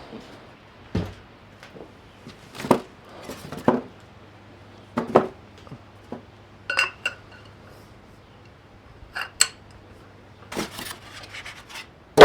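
Scattered metal clanks and clinks as a floor jack and jack stands are handled and set up, about a dozen separate knocks with a short ringing clink around the middle.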